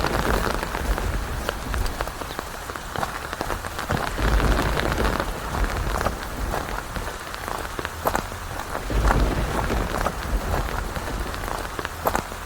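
Thunderstorm: steady heavy rain with individual drops striking close by, and low thunder rumbles swelling three times, at the start, about four seconds in and about nine seconds in.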